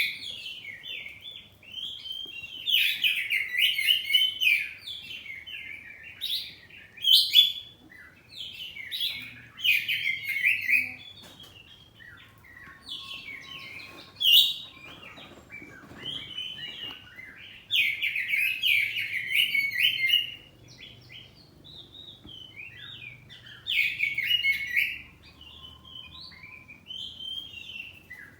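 Oriental magpie-robin (kacer poci) singing at full voice: loud bursts of quick, varied whistled and chattering phrases come every few seconds, with softer twittering between them.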